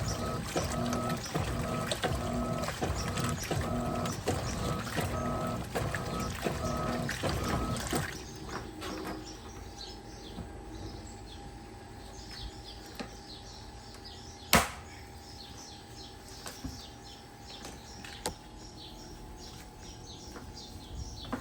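Electrolux Turbo Capacidade Premium 15 kg (LTP15) top-loading washing machine agitating, its motor and agitator whining in a rhythmic back-and-forth pulse. The agitation stops about eight seconds in, leaving quieter sloshing water, broken by one sharp click and later a fainter one.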